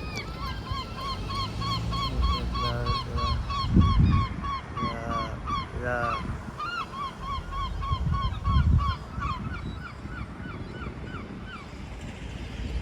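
A bird calling a fast run of short, repeated honking notes, about four a second, which stops about three quarters of the way through, with a few other calls mixed in. A few bursts of low rumble are heard under the calls.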